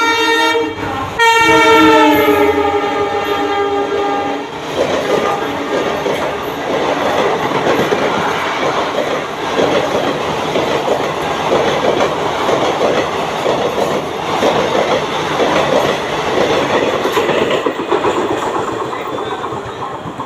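A fast train's horn sounds loudly, breaks off for a moment about a second in, then sounds again and drops in pitch as the train comes through. The rush and rhythmic wheel clatter of the passing train follow, fading near the end.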